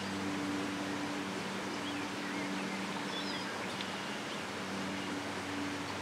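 Steady outdoor hiss with a low, steady hum underneath, and a few faint, high bird chirps in the middle.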